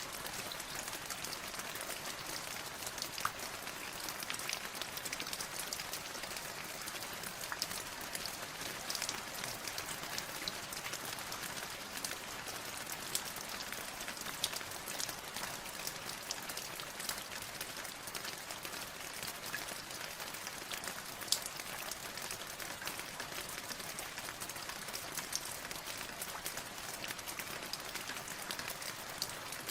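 Steady rain, an even hiss with many close drops tapping sharply and irregularly, no thunder.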